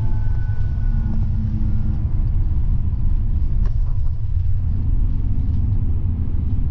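Steady low road and engine rumble inside a moving vehicle.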